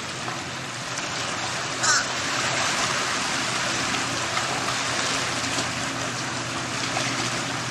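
Steady rush of flowing water, with one short bird call about two seconds in.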